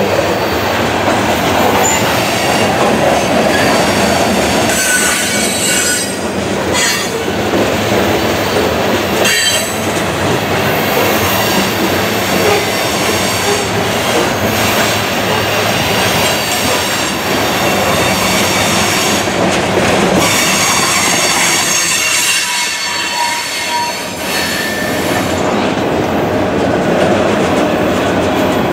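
A freight train of covered hoppers and autorack cars rolls past close by: a steady clatter and rumble of steel wheels on rail, with high-pitched wheel squeals coming and going.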